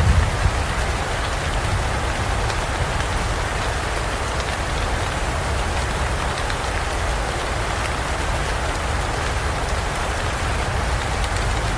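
Steady heavy rain falling in a forest, an even dense hiss of drops. A low thunder rumble dies away in the first half second.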